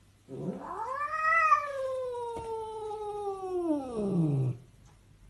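A cat's long, drawn-out yowl: a single call that rises in pitch, holds for a few seconds, then slides down and stops.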